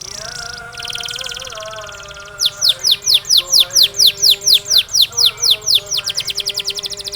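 Canary singing: a high buzzing trill about a second in, then a loud run of quick descending whistles, about four or five a second, that speeds up into a fast trill near the end. Steady background music plays underneath.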